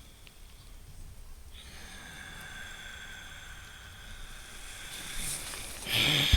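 Deliberate, audible breathing through the nose: a long hissing breath with a faint whistle begins about a second and a half in and slowly grows, then a louder, sharper rush of air comes near the end.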